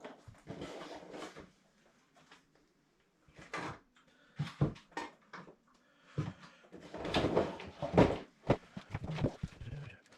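Irregular knocks, clunks and rustling of objects being handled, with a short quiet spell about two seconds in and a busier run of knocks later on.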